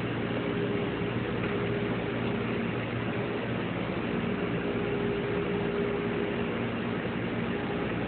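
Steady mechanical hum with hiss and a faint droning tone, unchanging throughout: the background machinery noise of an aquarium viewing hall.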